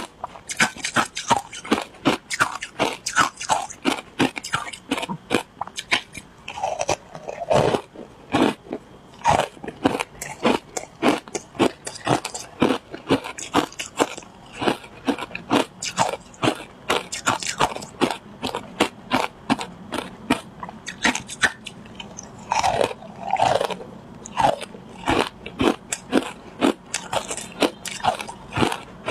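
A person biting and chewing matcha ice, in a fast, even run of sharp crunches, about two or three a second.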